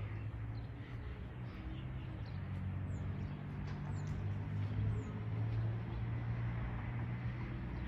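Steady hum of highway traffic, with a few short, high bird chirps around the middle.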